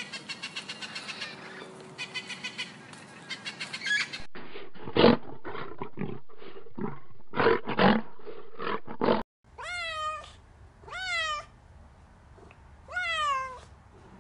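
Three animals in turn. First, an eclectus parrot makes a rapid run of short pulsed sounds. About four seconds in, a lion cub gives a series of about eight short, harsh bursts. From about nine and a half seconds, a tortoiseshell cat meows three times, each meow rising and then falling in pitch.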